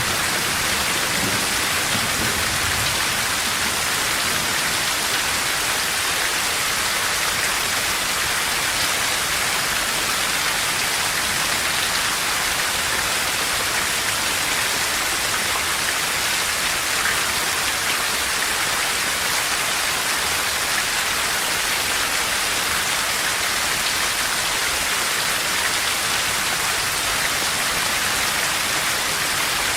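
Steady heavy rain falling on forest trees, an even hiss throughout. The tail of a low thunder rumble fades out in the first couple of seconds.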